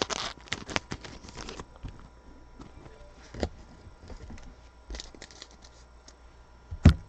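Trading cards and pack wrappers being handled on a table: crinkling, rustling and clicks, thickest in the first second and a half and scattered after. A single sharp knock comes near the end.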